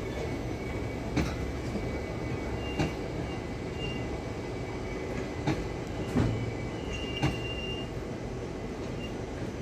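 Passenger train running slowly through a station, with a steady low rumble of wheels and coaches. About five sharp clanks are spread through it, the loudest just after the middle, along with a few brief high-pitched wheel squeals.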